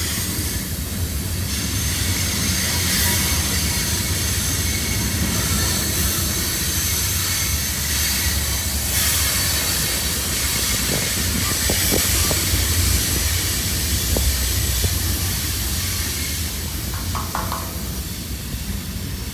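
CSX freight train's cars rolling past beneath a road bridge: a steady rumble and rattle of wheels on the rails that holds at an even level.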